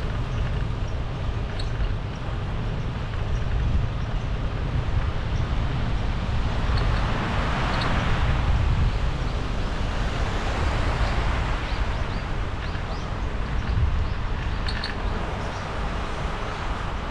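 Wind rumbling on the microphone of a cyclist riding along, with a broader hiss that swells and fades through the middle and a few faint high chirps.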